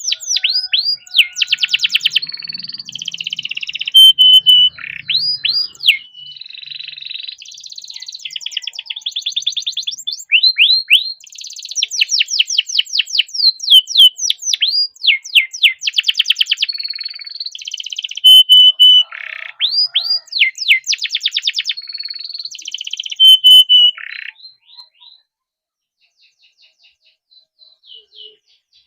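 Domestic canary singing a long, fast song of rolling trills, rapid sweeping chirps and briefly held whistled notes. The song stops near the end, leaving a few faint notes.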